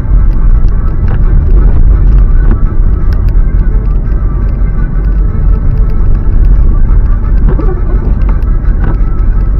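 Car driving on a snowy road, heard from inside the cabin: a steady, loud low rumble of tyres and engine with a few faint clicks.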